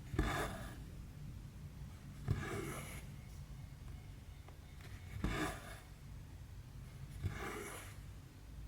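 Cross stitch needle and thread going through the fabric: four times, each a quick poke followed by a short swish as the thread is drawn through, about every two seconds.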